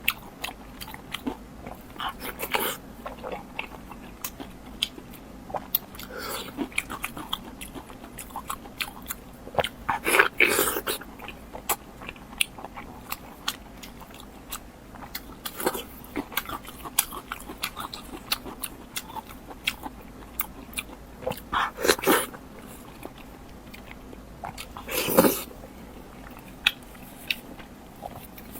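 Close-miked eating: biting and chewing with many short wet mouth clicks and smacks, and a few louder bites about ten seconds in and twice more in the last third.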